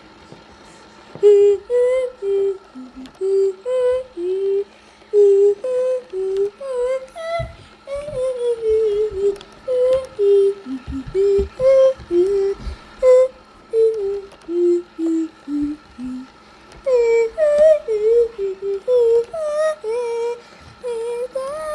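A child humming a wordless tune, one short wavering note after another, over the steady whine of the Roomba's motors.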